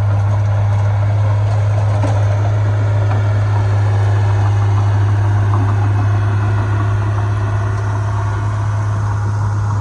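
Heavy diesel engine of earthmoving equipment running steadily, with a strong constant low hum.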